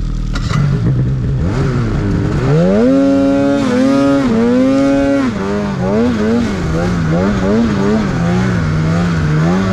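Snowmobile engine accelerating: the revs climb about two seconds in and hold high for a couple of seconds, then drop and rise again and again as the throttle is worked.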